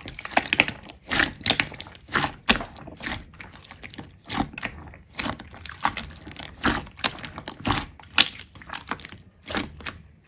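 Slime being squeezed and poked by hand, giving irregular crisp crackles and popping clicks, several a second.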